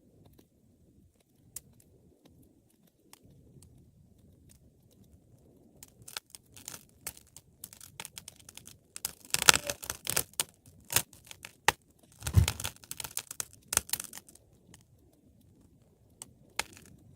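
Wood fire crackling with scattered sharp pops, breaking into two louder runs of dense crackling about midway through.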